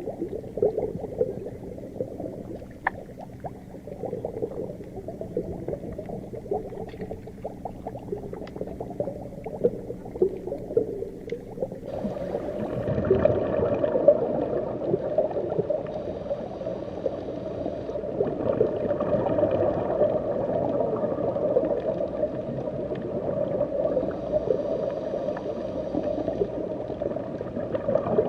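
Underwater ambience: a muffled low rumble with bubbling and scattered faint crackles. About twelve seconds in it becomes fuller and louder.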